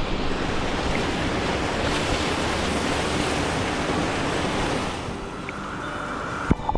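Steady rushing of water from a stream and small waterfall. It eases slightly about five seconds in, and a sharp click comes near the end.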